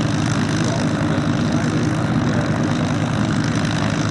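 Merlin V-12 piston engine of a warbird fighter running steadily at low power while taxiing.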